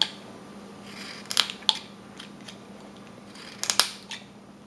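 Carving knife cutting into wood in a few short, crisp slicing strokes, a pair a little over a second in and another pair near the end, as small chips are cut out to deepen a detail.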